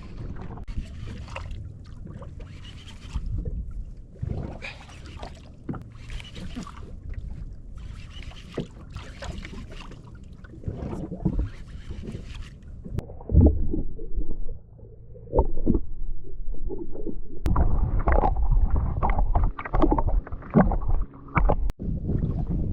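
Water and wind noise around a jet ski sitting on the sea, rising to louder jostling noise in the second half, with a few sharp clicks.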